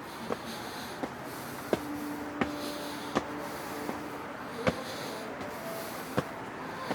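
Footsteps on a hard hiking trail: one sharp, even step about every 0.7 seconds over a steady hiss.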